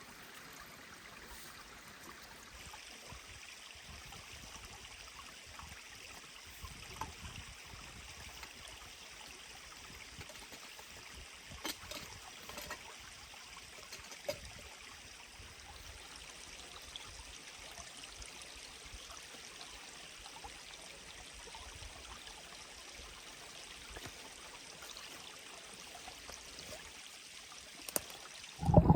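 Mountain stream flowing steadily, heard faintly, with a few light clicks about a quarter and halfway through.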